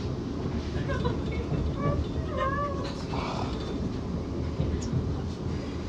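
Steady rumble of a moving train carriage. Over it, about one to three seconds in, come a few short, high-pitched, gliding voice sounds.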